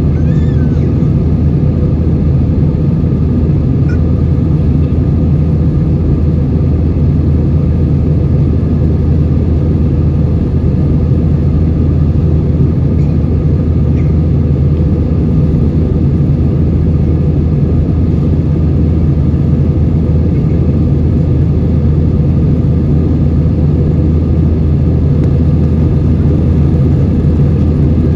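Steady low rumble of an Airbus A320-232's IAE V2500 engines and airflow, heard inside the passenger cabin.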